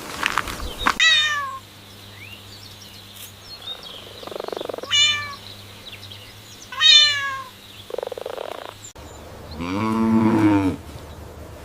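Animal calls: three short, high, falling cries a few seconds apart, with soft rustling between them. Near the end comes a single lower, longer call.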